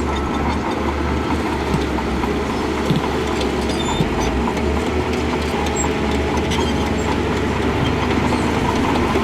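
Heavy earthmoving machinery's diesel engine running steadily under load, with scattered clanks and rattles of metal and rock.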